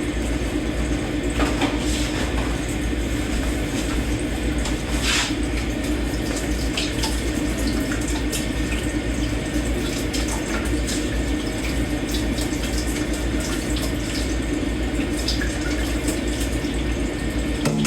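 Kitchen tap running steadily into a sink while dishes are hand-washed, with scattered light clinks of dishes and cutlery.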